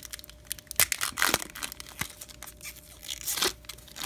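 A foil baseball-card pack wrapper crinkling and being torn open, with irregular sharp rustles and clicks as the cards are handled; the longest tear comes a little over a second in.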